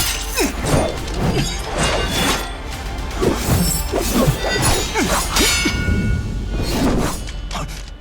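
Fight sound effects: a dense run of hits, swishes and crashes over background music, dying down near the end.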